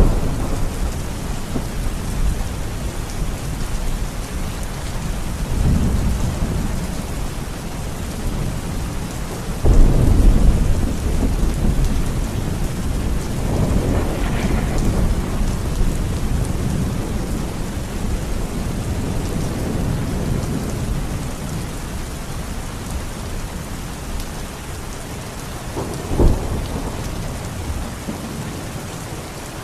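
Steady rain during a thunderstorm. Thunder rolls in with a low rumble about six seconds in, and a loud peal starts suddenly about ten seconds in and rumbles on for several seconds. Another rumble comes around fourteen seconds in, and a short sharp clap near the end.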